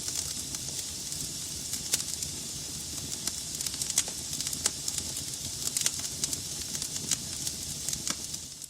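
Wood logs burning in a fireplace: a steady hiss with a low rumble of flames under it, and frequent irregular crackles and pops, the sharpest about two and four seconds in.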